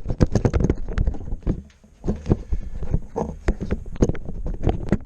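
Rapid, irregular knocks and clunks of close handling noise, which fade out at the very end.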